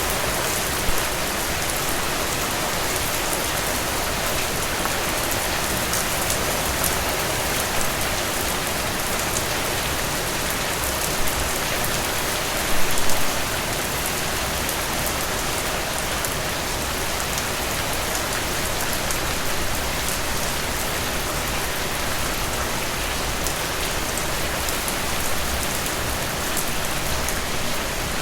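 Steady rain falling, a dense even hiss with fine drop ticks, and a few brief louder spatters, the biggest about halfway through.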